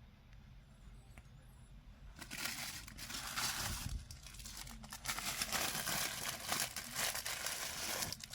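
Statue packaging wrap being crinkled and handled in two bouts, the first about two seconds in and the second a second or so later.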